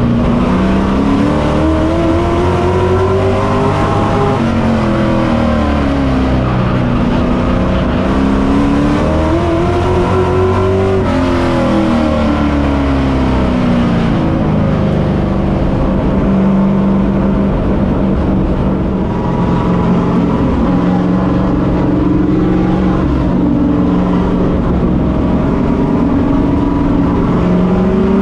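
Pro Truck race truck's engine heard on board, revving up and easing off in repeating swells about every seven seconds as it is driven hard around the short oval. In the second half the engine note holds steadier for several seconds before rising again near the end.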